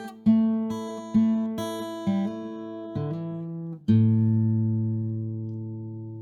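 Outro music: an acoustic guitar strumming chords, ending on a final chord about four seconds in that rings on and slowly fades.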